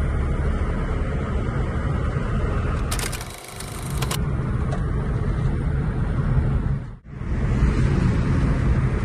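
Car engine running with a steady low drone, a brief hiss about three seconds in, and a sudden break about seven seconds in.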